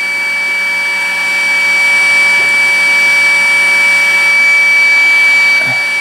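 Hot air rework gun blowing steadily: a hiss with a high, constant fan whine, heating the AM2 socket's BGA solder as it starts to let go.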